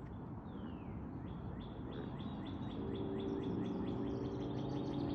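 A bird calling: one falling whistled note about half a second in, then from about two seconds in a run of short falling chirps, about three a second. A steady low hum joins about three seconds in.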